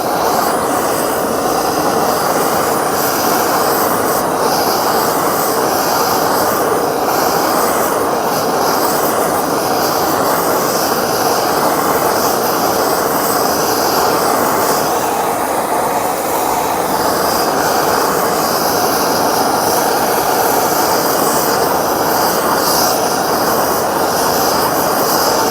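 Gas torch flame burning with a steady hiss. It is heating a gearbox's fifth-gear nut and hub to loosen them, hot enough that the oil on the part begins to smoke.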